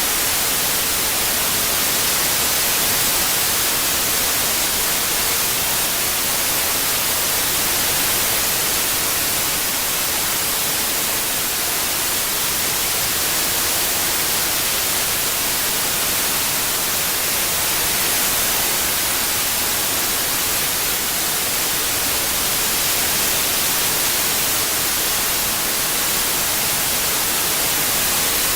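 Steady white noise, an even hiss with most of its energy in the high frequencies, unchanging throughout.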